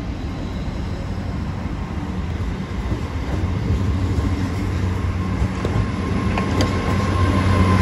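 Hitachi Class 800 bi-mode train running past close by, its underfloor diesel engines giving a steady low hum that grows louder as the coaches go by. There is a single sharp click about two-thirds of the way through.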